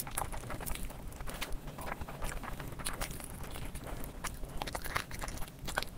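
Close-miked eating: irregular wet chewing and lip-smacking of a mouthful of fried rice and chicken, with squelches of fingers working through rice and gravy.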